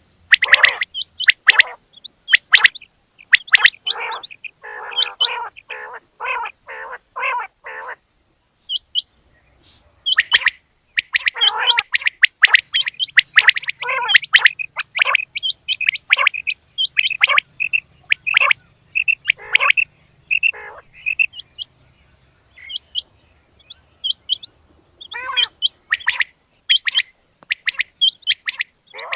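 Quail calling: a long string of short, sharp calls, some in quick, evenly spaced runs of about two a second, broken by a pause of a couple of seconds about a third of the way in.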